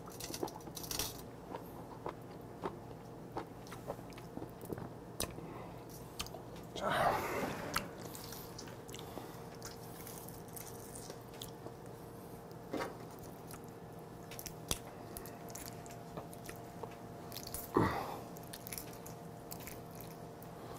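Close-miked chewing of raw live octopus: many small wet clicks and smacks from the mouth, with two louder, longer bursts of mouth noise about 7 and 18 seconds in.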